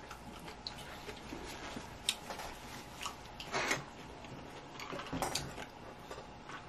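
Quiet chewing and mouth clicks of a person eating, with a couple of brief rustles partway through.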